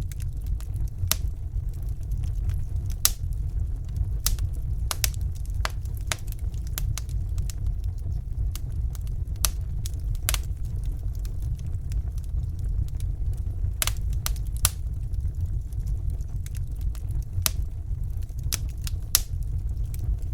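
Fire burning in a fireplace: irregular sharp crackles and pops, a few to several every second, over a steady low rumble.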